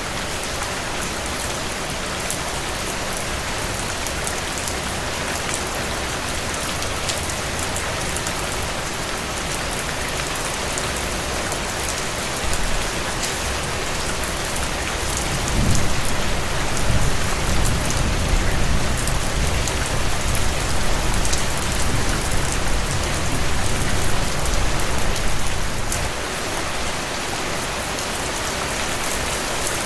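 Steady rain falling, with the patter of individual drops. About halfway through, a low rumble swells up under the rain for some ten seconds, then fades.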